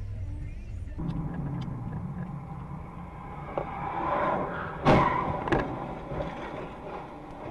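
Car in motion, with steady engine and road noise, and a sharp bang about five seconds in, followed by a smaller one about half a second later.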